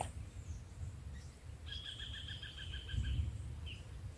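A bird calling a quick run of about nine short, evenly spaced notes for a little over a second, starting nearly two seconds in, over a low rumble.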